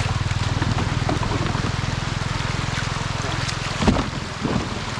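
A small engine running steadily with a fast, even beat, over a wash of water noise. It is broken by a sharp knock about four seconds in, after which the engine beat fades.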